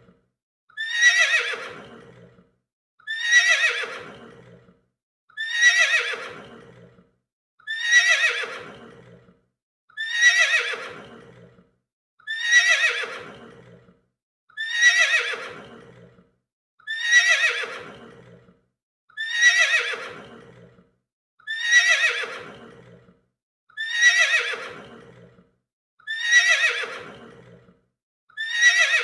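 A horse neighing over and over, the same neigh repeated about every two seconds. Each one starts high and slides down in pitch, and a short silence follows.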